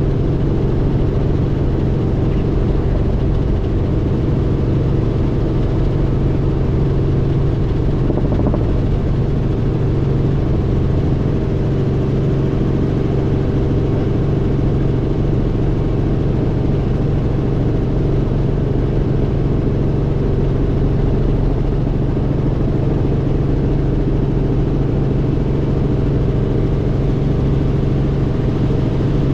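Helicopter in flight: the engine and rotor make a steady, loud drone with a constant low hum, with no change in pitch.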